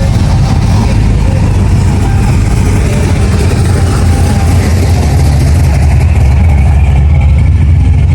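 Car engine running at idle with a deep, steady rumble, a little stronger in the second half.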